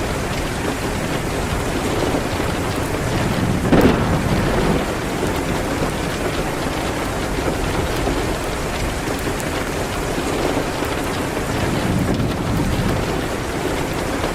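Steady rain hitting a window, with a fireplace crackling faintly and one louder sharp crack about four seconds in.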